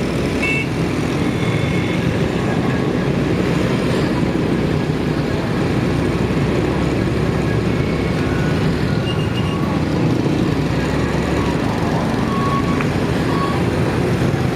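Motorcycle running at riding speed in city traffic: a steady engine and road noise, with a few short high tones from other traffic.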